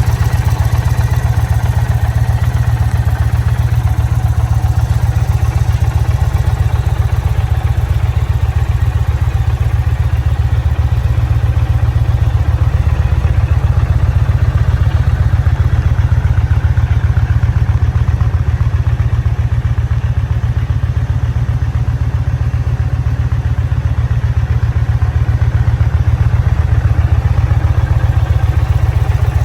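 Indian Challenger motorcycle's V-twin engine idling steadily, with a deep, even low-pitched pulse that holds constant throughout.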